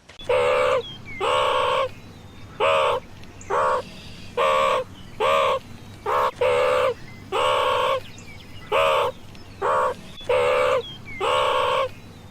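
An animal giving a long series of harsh, caw-like calls, about one a second, over a steady low hum.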